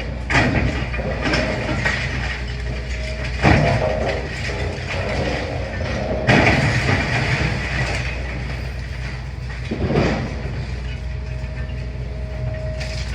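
Demolition excavator's diesel engine running steadily, with rubble crashing and scraping four times and a thin metallic squeal near the end.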